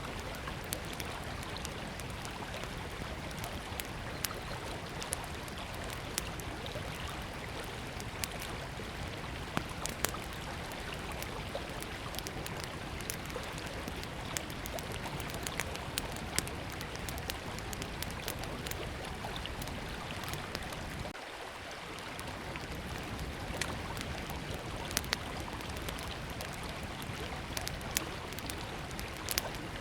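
A river flowing with a steady rush, under the irregular crackling and popping of a small wood campfire, sharp pops every second or so.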